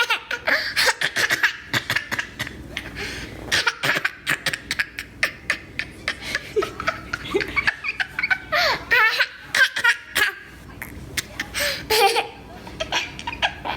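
Child laughing in many short, sharp bursts, with a few rising and falling vocal sounds about nine and twelve seconds in.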